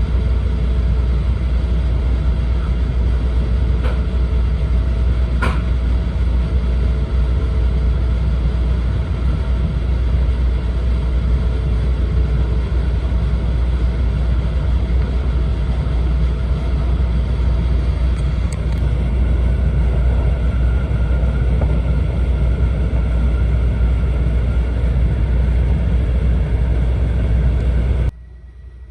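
Steady low running rumble inside the passenger cabin of an E4 series Shinkansen train at speed, with a couple of faint clicks a few seconds in; it cuts off abruptly near the end.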